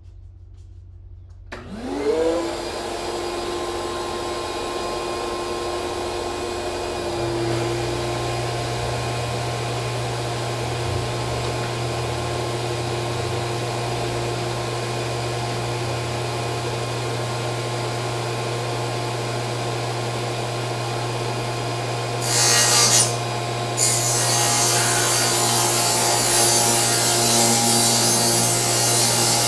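Delta table saw switched on about two seconds in, its motor spinning up with a rising whine and then running steadily. About 22 seconds in the blade starts cutting plywood, a loud rasping noise, briefly first and then steadily through the rest.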